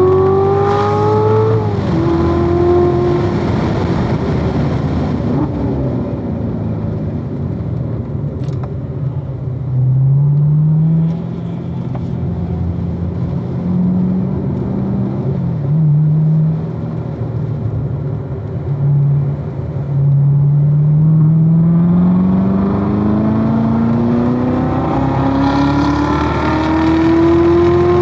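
2016 Corvette Z06's supercharged 6.2-litre V8 driven hard. It pulls up in pitch and breaks off after about a second and a half, runs low and uneven with several short surges through the middle, then climbs steadily in pitch through one long pull over the last several seconds.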